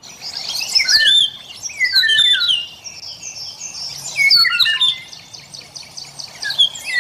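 Oriole singing: a quick run of clear whistled notes and short slurred phrases that slide up and down in pitch, over a light hiss.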